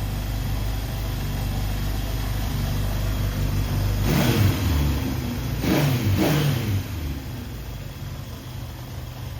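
A freshly rebuilt 1972 Honda CB750's air-cooled inline-four idles, then is blipped twice with the throttle, about four and six seconds in, its pitch rising and falling each time before it settles back to idle.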